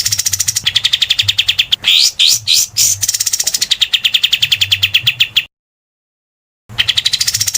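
Recorded songbird 'tembakan' call used for bird-song training: a rapid, harsh rattling run of sharp notes, about a dozen a second, broken by a few quick rising sweeps. It cuts off abruptly a little past halfway and starts again near the end.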